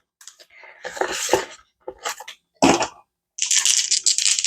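Paper bills and envelopes rustling and crinkling in bursts as cash is handled and slipped into a budget envelope, with a longer stretch of rustling near the end.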